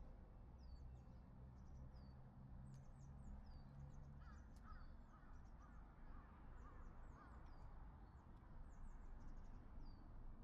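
Faint wild birds calling: short, high, down-slurred chirps repeat throughout, with a run of lower chattering calls from about four to seven and a half seconds in, over a low steady rumble.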